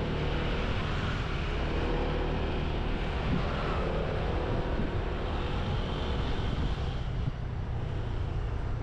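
Motorbike riding along a road, its engine running steadily under wind rushing over the camera microphone.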